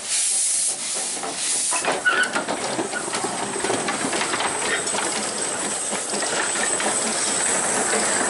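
Narrow-gauge steam locomotive, a 1907 Orenstein & Koppel, hissing steam in a few bursts during the first two seconds, then running with a steady, dense clatter that grows slightly louder.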